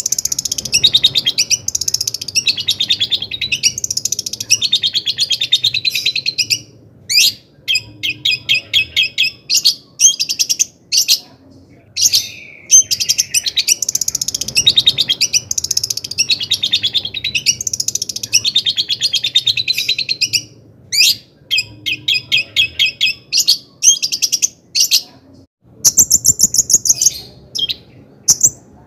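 Long-tailed shrike (cendet) singing vigorously: long, fast runs of rapid chattering and chipping notes, high-pitched, in bursts broken by short pauses.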